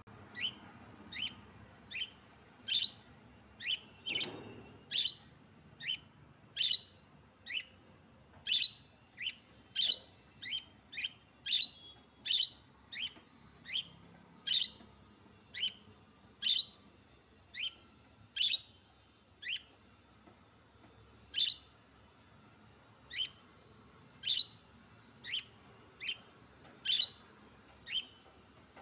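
Budgerigars chirping: a long string of short, sharp chirps, irregularly spaced at about one to two a second, with one pause of a couple of seconds a little past the middle.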